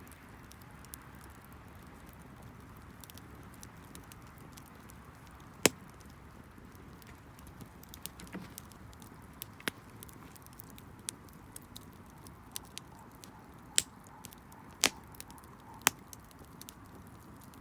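Wood bonfire crackling: scattered sharp pops and small ticks over a faint steady hiss, with a loud pop about six seconds in and three more in quick succession near the end.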